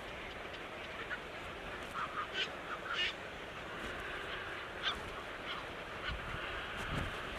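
Birds calling: a few short calls in quick succession about two to three seconds in and another near five seconds, over a steady background hiss.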